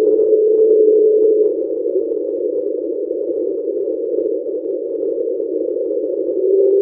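Underwater hydrophone recording of an unexplained deep-ocean sound: a steady, rough, low drone with a pure tone running through it. The pure tone fades a second or two in and returns near the end.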